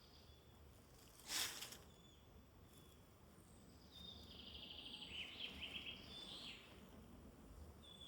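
Faint woodland birdsong: several small songbirds giving short high thin calls, with a trilling song from about four seconds in lasting a couple of seconds. About a second and a half in, a brief burst of rustling noise is the loudest sound.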